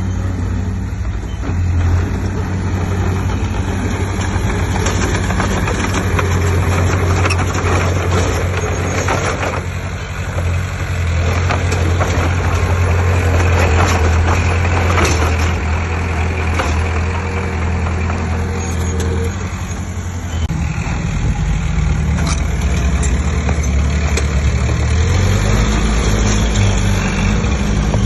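Heavy diesel engine of earthmoving machinery running under load with a steady low drone. Its note changes about two-thirds of the way through.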